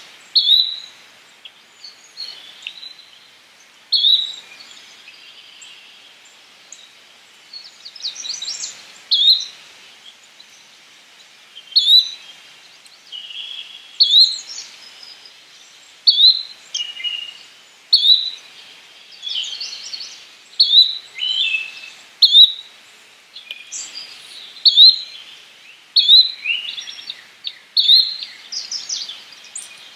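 Yellow-bellied flycatcher calling: a short, sharp note repeated every one to two seconds, with busier bursts of chattering notes in between.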